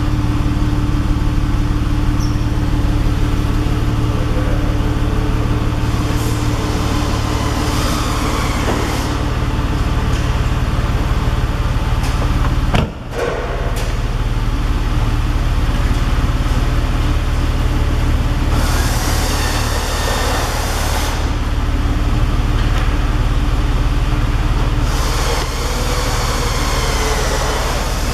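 Porsche 911 Carrera's flat-six engine running through its Tubi exhaust, a steady low drone. A brief dropout comes near the middle, and two stretches of hiss come in over the drone in the second half.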